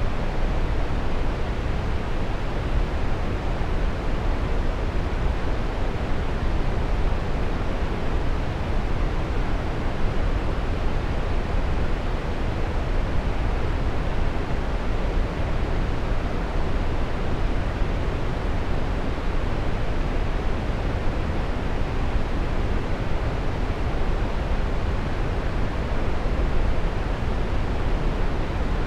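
Waterfall: a steady rush of falling water, even and unbroken, deep and full in the low end.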